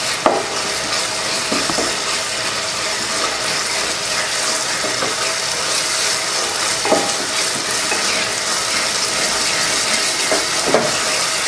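Shallots and tomatoes sizzling steadily as they fry in oil in an aluminium pot, while a wooden spatula stirs and mashes them, scraping the pot with a few knocks against it.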